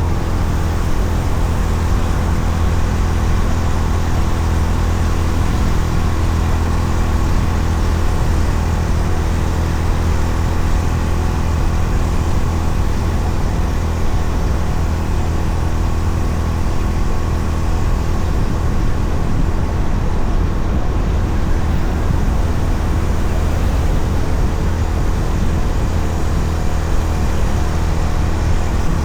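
Honda CB350RS's air-cooled single-cylinder engine running at a steady cruise under a continuous rush of wind and road noise.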